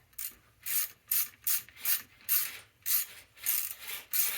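A ratchet worked back and forth in short strokes, its pawl clicking on each swing, about two to three strokes a second.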